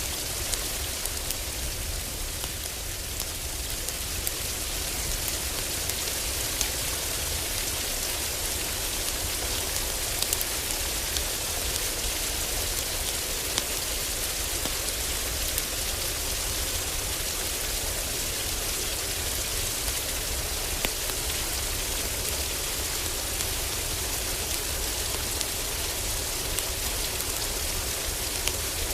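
Heavy rain falling on a roof: a steady, dense hiss with scattered sharp clicks throughout.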